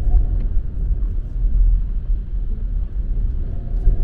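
Steady low rumble of a car on the road, heard from inside the cabin while it creeps along in stop-and-go traffic.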